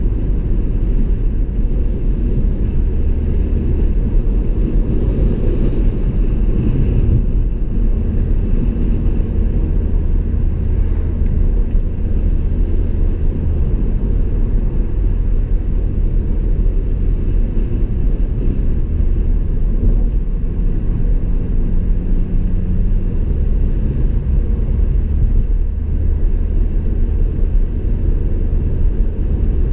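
Car driving on a road, heard from inside: a steady low rumble of engine and tyre noise that holds even throughout, with no sharp events.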